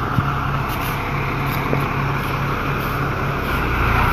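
Crane truck's engine running steadily, a continuous low hum under a broad rumble, with a small knock about a fifth of a second in.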